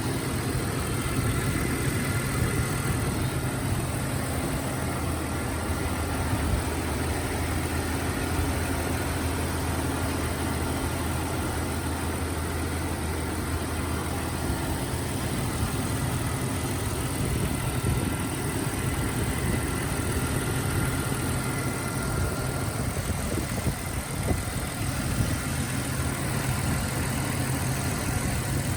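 Jeep Cherokee XJ engine idling steadily as it warms up, so the thermostat can open while air is burped out of the freshly filled cooling system. Its low note changes slightly about halfway through.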